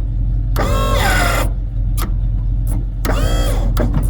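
1984 tow truck's engine idling steadily, with two short whines of about a second each over it, one near the start and one near the end, as the wheel lift is worked.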